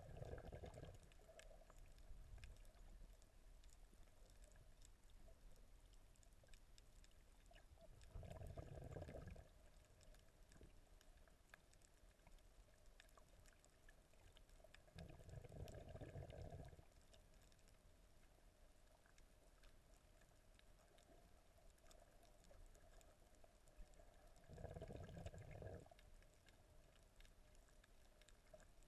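Quiet underwater sound while snorkelling: a constant faint crackle of tiny clicks. Four times, roughly every eight seconds, a muffled low whoosh lasts about a second and a half.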